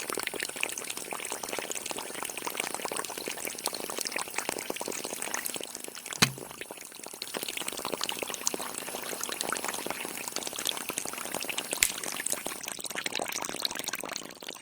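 Water pouring and splashing in a steady trickle, with one brief knock about six seconds in.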